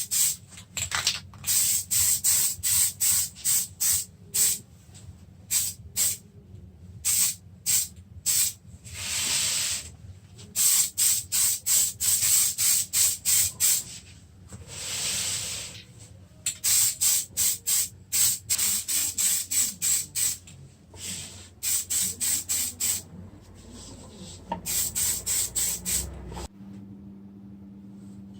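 Rapid short hissing bursts of spray, two or three a second, with two longer bursts of about a second each, over a steady low hum.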